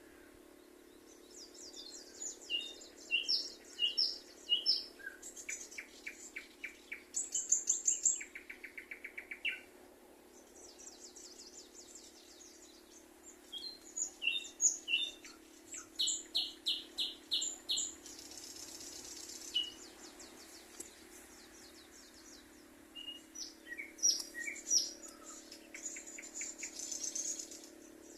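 Several songbirds singing: bursts of short, high chirps and rapid trills that come and go throughout, over a faint steady low hum.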